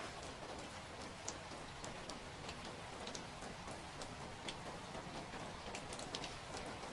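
Steady rain falling, with irregular sharp drip ticks scattered through it.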